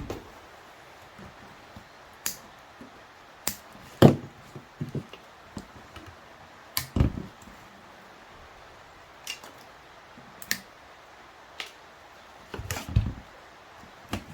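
Irregular clicks and knocks of hand tools and metal and plastic parts being handled while a car seatbelt pretensioner mechanism is taken apart, with a short cluster of knocks near the end.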